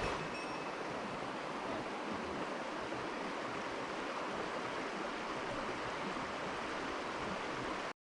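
Mountain stream running, a steady, even rush of water.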